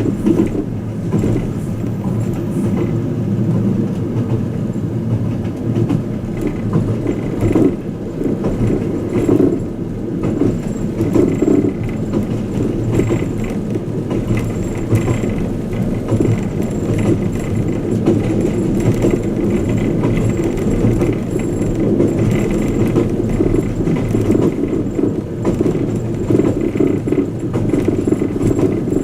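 Running noise inside a passenger car of the Twilight Express Mizukaze luxury train: a steady rumble of wheels on rail, with light rattles and clicks from the car.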